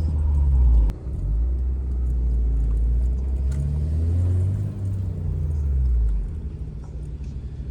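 Car engine and exhaust rumbling low and loud, dipping briefly about a second in and easing off near the end.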